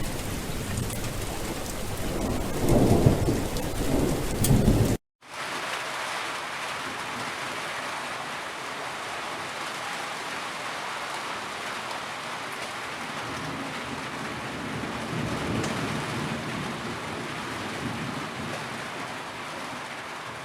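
Steady rain with thunder rumbling low underneath, swelling twice in the first few seconds. The sound cuts out completely for a moment about five seconds in, then comes back as an even rain hiss without the thunder.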